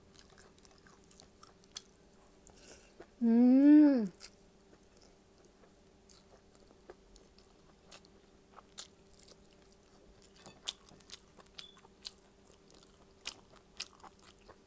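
Faint close-up eating sounds of someone eating rice and dried fish by hand: soft chewing and biting clicks, with a short hummed voice sound that rises then falls about three seconds in. A faint steady hum runs underneath.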